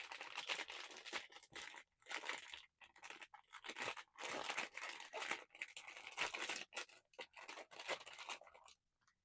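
Blind-box packaging being torn open and handled: irregular crinkling and tearing of plastic wrapping in quick bunches with short pauses.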